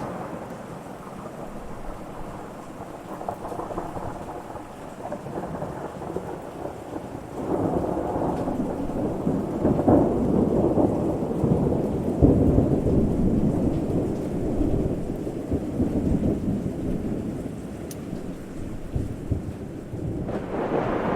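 Thunder rumbling through a rainstorm over a steady hiss of rain. The rumble swells about seven seconds in, is loudest with a couple of heavier peals around ten to thirteen seconds, then dies away.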